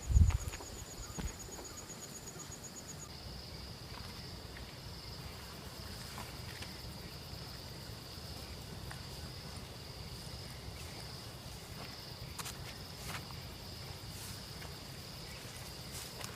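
Forest insects chirping steadily: one continuous high drone, joined by a second, fast-pulsing trill that stops about three seconds in. A single low thump right at the start.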